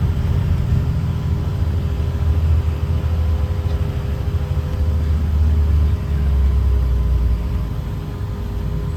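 Blue Bird Vision school bus's Caterpillar C7 diesel engine running under way, heard from inside the passenger cabin as a steady low rumble.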